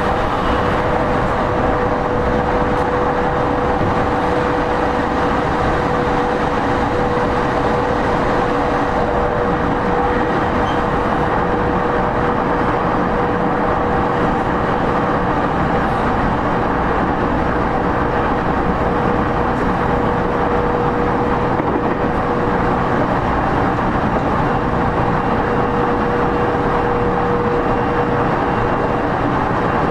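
E231 series commuter train running between stations at a steady speed, heard inside a motor car: a steady traction-motor whine over the continuous rumble of wheels on rails.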